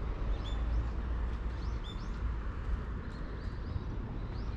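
Small birds calling with short, high chirps, several times, over a low steady rumble.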